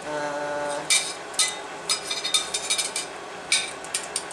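A brief steady pitched hum at the start, then a series of light metallic clinks and taps from steel stock and tools being handled.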